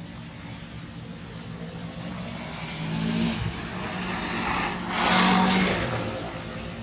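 A motor vehicle passing, its engine and tyre noise swelling to a peak about five seconds in and then fading.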